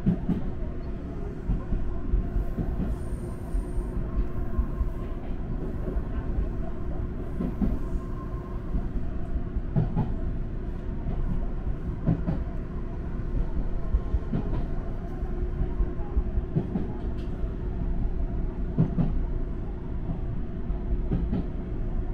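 Electric train running on the line, heard from inside the front car: a steady rumble of wheels on rail with a steady hum, and a knock from the wheels going over rail joints every two seconds or so.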